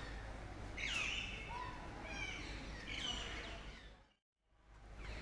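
Birds chirping: several short calls that sweep in pitch, over steady low background noise. The sound cuts out completely for a moment about four seconds in.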